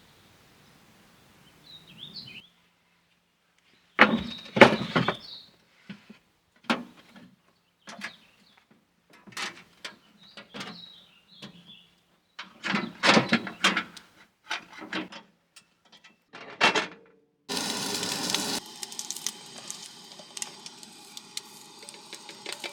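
A string of short knocks and clatters of things being handled, with a few bird chirps between them. About three-quarters of the way through, a steady hiss begins and runs on.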